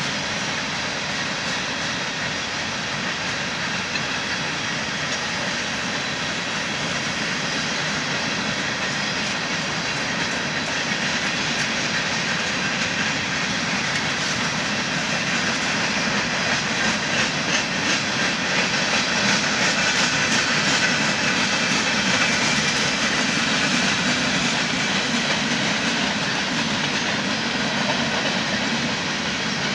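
Covered hopper cars of a freight train rolling past, their steel wheels giving a steady rumble and clatter on the rails. The sound grows louder, with rapid clicking, in the middle, then eases slightly.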